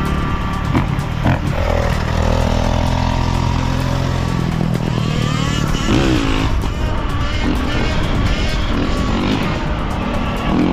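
Motorcycle engine running and revving under background music with a steady beat, with a sharp rise in pitch about six seconds in.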